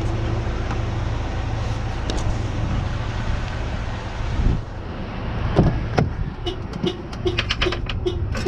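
A truck engine idling steadily. About halfway in there is a thump and the sound turns duller, then a few sharp knocks and a rapid repeating tick, about three a second.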